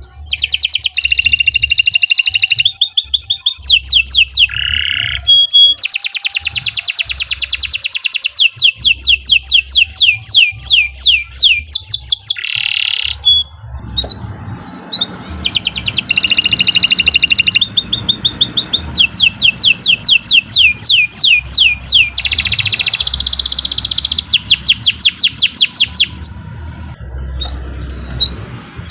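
Canary singing a long, loud song of fast repeated trills. Each phrase runs for a few seconds before switching to a new note pattern, with a few brief pauses.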